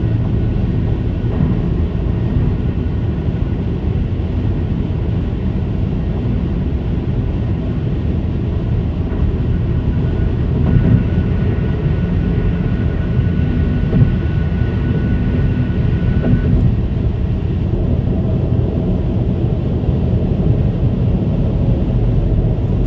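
Steady low-pitched hum of car tyres running at high speed on diamond-ground concrete pavement, from a 2022 Kia Forte GT-Line. A faint higher steady whine joins for several seconds in the middle.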